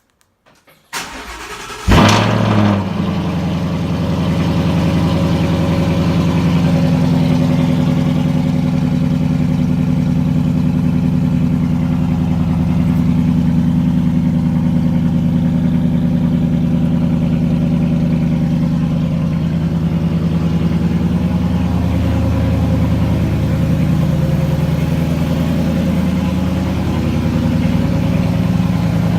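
2016 Ford Mustang GT's 5.0-litre V8, fitted with a Ford Performance by Borla sport cat-back exhaust, cold-starting. The starter cranks about a second in, the engine catches with a loud flare about two seconds in, then it settles into a steady idle.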